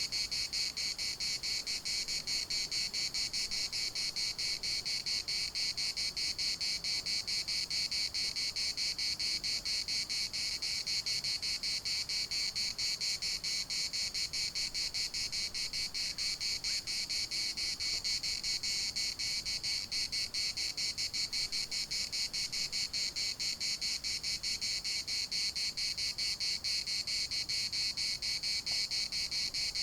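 Cicada chorus: a steady, rapidly pulsing high buzz that keeps going without a break.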